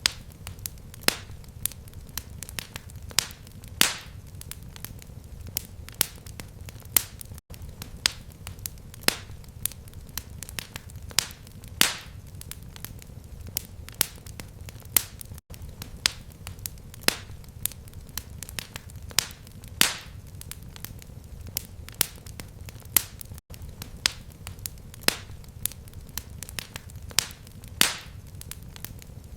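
Fireplace fire crackling: irregular sharp pops and snaps, several a second, over a low steady rumble of flame. It is a short recording looped about every eight seconds, with a brief gap at each seam.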